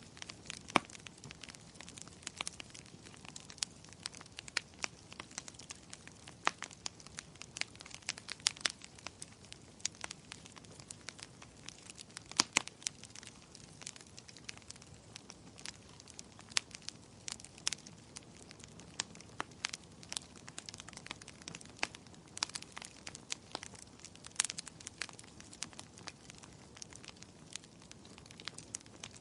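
Wood fire burning in a fireplace, crackling with many small irregular snaps and occasional louder pops over a soft steady hiss.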